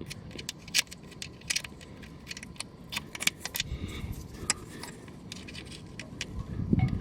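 Small metal tools clinking and clicking irregularly as they are handled, over low rumbling handling noise.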